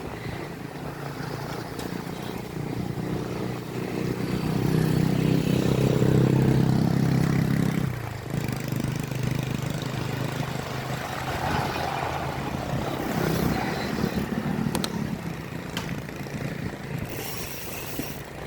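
Motorcycle engine running on the move. It grows louder a few seconds in, then eases off sharply about eight seconds in and keeps running unevenly.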